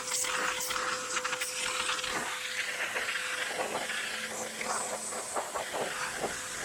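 Pressure washer spraying: a steady hiss from the water jet that swells and fades, over a steady hum from the machine.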